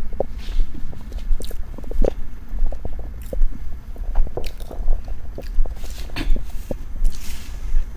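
Close-up chewing of a tea egg: regular chews, each with a low thud and some short crackles.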